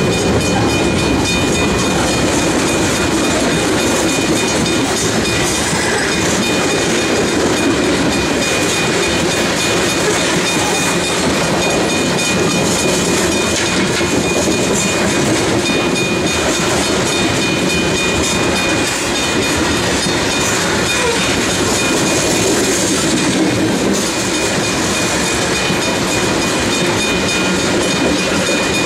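Loaded freight cars of a heavy manifest train rolling past close by: a steady rumble of steel wheels on rail with rapid clicking from the wheels over the rail joints, and a thin steady high whine above it.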